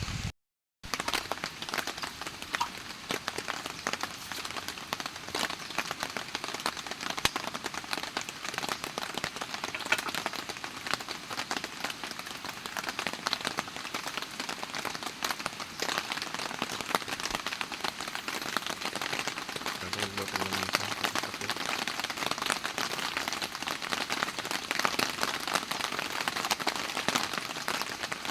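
Rain falling steadily, with many drops hitting close by in a dense, even patter. The sound cuts out for a split second just after the start.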